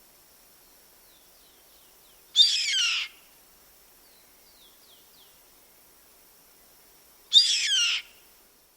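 Bird calling: two loud harsh calls, each falling sharply in pitch, about five seconds apart, with faint short downward chirps between them.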